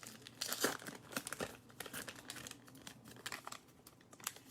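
Trading-card pack wrapper crinkling and tearing as the pack is opened: a run of irregular crackles, loudest about half a second in.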